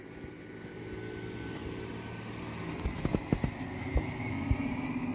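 Garbage truck's diesel engine running steadily and rising slightly in level, with a cluster of sharp knocks about three seconds in and two more single knocks after it.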